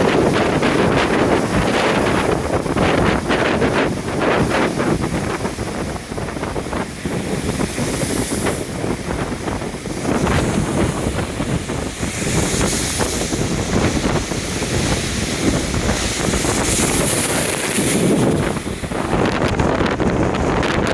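Strong, gusty wind buffeting the microphone over heavy lake surf breaking on the shore, in winds of about 35 mph gusting to 45 mph. The rush swells and eases with the gusts and the breaking waves.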